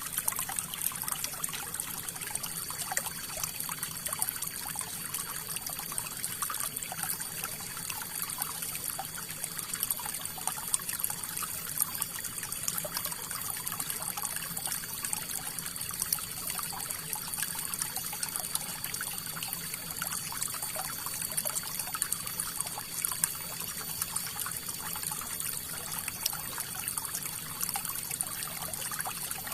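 River water flowing steadily, with a dense patter of small splashes.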